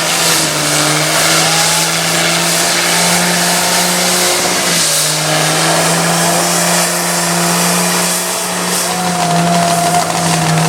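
A motor vehicle's engine held at steady high revs, dropping off briefly about halfway through and coming back up, with a wide hiss over it.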